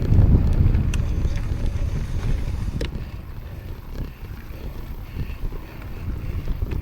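Wind buffeting the microphone of a camera on a moving bicycle: a low rumble that eases after about three seconds, with a few sharp clicks.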